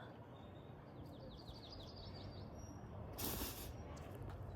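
A songbird singing a quick run of about ten short, high, down-slurred notes about a second in, over faint outdoor ambience. A brief breathy hiss follows about three seconds in.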